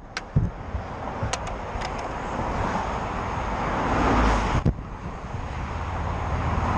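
Motorcycle riding on a road, its engine and the rushing air building steadily, then dipping sharply about four and a half seconds in before picking up again. A few light clicks sound in the first two seconds.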